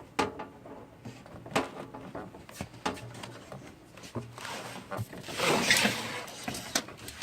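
Handling noises of cables and computer hardware: scattered clicks and knocks, with a louder stretch of scraping and rustling about five seconds in.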